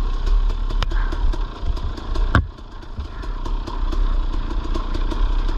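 Dirt bike engine running at low revs over rough trail, with clattering knocks from the bike; a sharp knock about 2.4 seconds in, after which the engine drops back briefly before picking up again.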